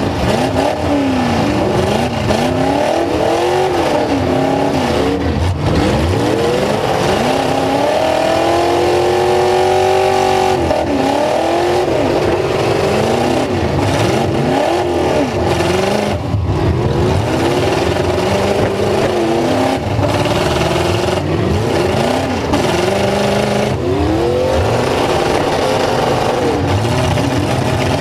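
Several full-size truck engines revving hard at once, their pitches climbing and falling over and over as they push and ram. The noise is loud and continuous.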